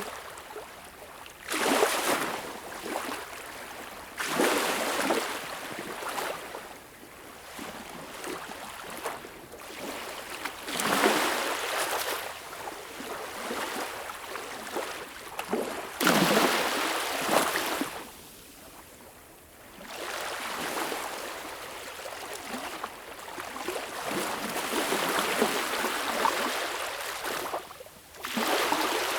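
Small waves breaking and washing up a beach: a wash every few seconds, each one rising quickly, fizzing and draining away.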